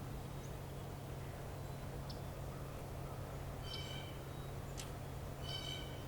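Outdoor winter ambience: a steady low hum over a faint rumble, with two short bird calls, one about four seconds in and one near the end, and a sharp click between them.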